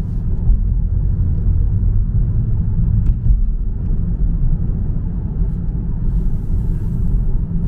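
Steady low rumble of a car driving, engine and road noise heard from inside the cabin, with a faint hiss for a second or so near the end.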